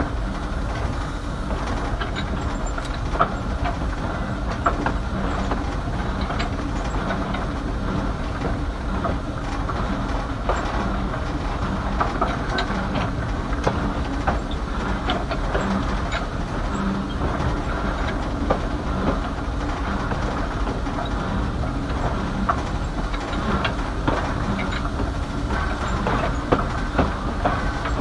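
Small heritage train rolling along the track: steady running noise with scattered clicks of the wheels over the rail joints.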